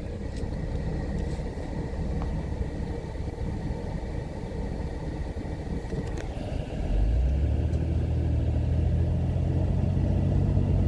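Car engine and tyre rumble heard from inside the cabin while driving. It steps up louder about seven seconds in, to a steadier low drone.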